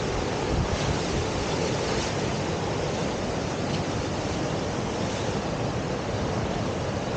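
Whitewater of a river surf wave rushing steadily, an even wash of water noise with no breaks.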